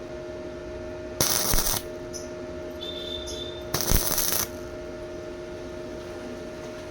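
Stick welding arc crackling in two short bursts of about half a second each, the pattern of tack welds, over a steady electrical hum.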